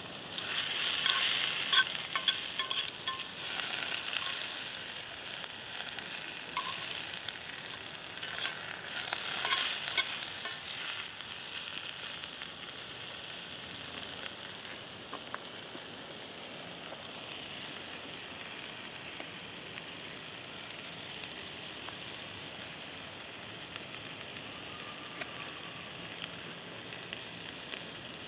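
Shrimp, peppers and tomatoes sizzling in an oiled cast-iron pan set in campfire embers. For roughly the first ten seconds the pan is stirred, with clicks and scrapes over a louder sizzle, then it settles into steady frying.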